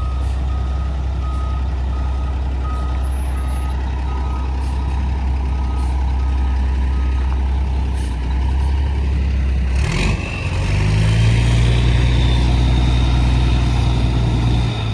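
Heavy truck's engine running while it reverses, its backup alarm beeping about twice a second until halfway through. About ten seconds in comes a sudden sharp burst of noise, and the engine then runs at higher revs.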